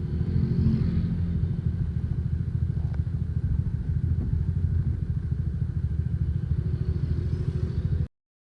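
An engine running steadily with a fast, even low pulse, cutting off suddenly near the end.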